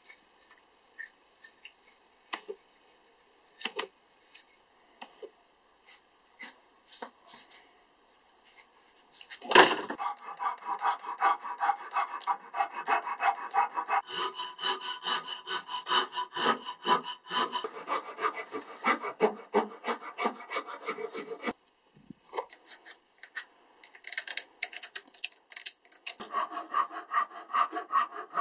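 Hand file scraping a wooden axe-handle blank clamped in a vise, in rapid back-and-forth strokes. Light scattered knocks and clicks come first, then about nine seconds in the filing starts. It stops briefly a few seconds before the end and then resumes.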